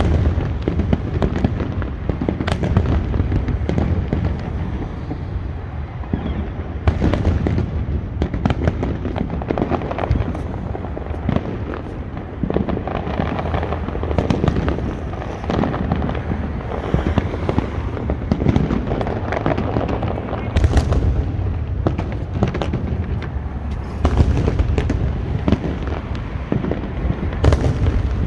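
Fireworks display going off without a break: a dense barrage of bangs and crackles over a deep rumble, with louder bursts several times.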